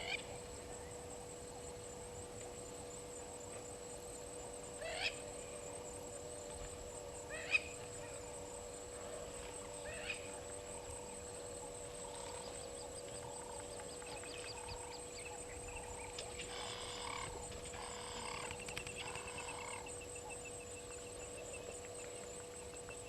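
Bush ambience at a waterhole: a steady high insect drone, with birds calling over it, first three short sharp rising whistles a few seconds apart, then a spell of chattering calls and a rapid trill.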